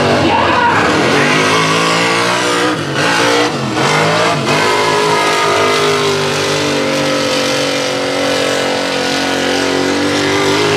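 Mega truck's big engine running at high revs under race throttle. The revs drop and climb back twice about three to four and a half seconds in, then hold steady.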